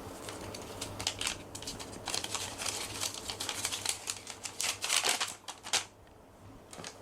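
Rustling and crinkling: a run of quick, irregular crackles that gets busier after about two seconds and stops about six seconds in, over a low steady hum.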